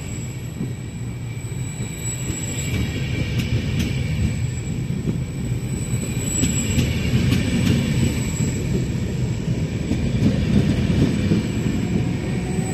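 Double-deck Trenitalia regional electric train rolling past along the platform: a dense low rumble of wheels on track that grows steadily louder, with a steady high whine and a few sharp clicks.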